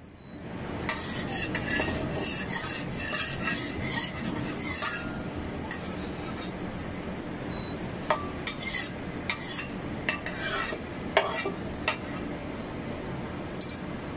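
Corn and egg fritter batter sizzling in a little oil in a wok, with a spatula scraping and tapping against the pan in bunches, mostly in the first five seconds and again from about eight to twelve seconds in.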